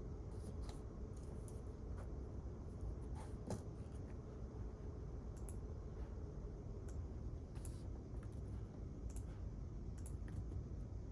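Quiet library room tone: a steady low hum with scattered faint, light clicks at irregular intervals, like keys or a pen tapping.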